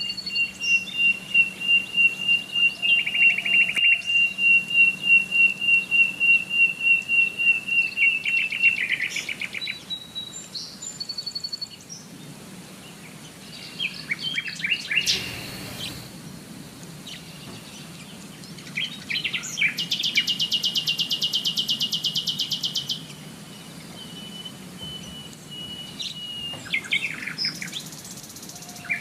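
Songbirds singing and chirping. One bird repeats a high note about three times a second for the first nine seconds, scattered chirps follow, and a fast trill comes about twenty seconds in.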